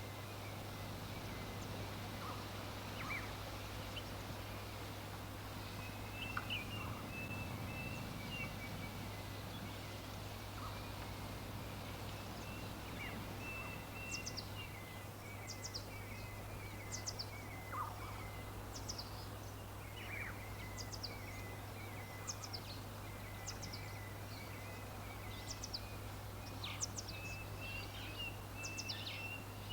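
Several wild birds calling: many short, high, sharp chirps scattered throughout, with stretches of lower warbling song that come and go, over a steady low hum and a soft background hiss.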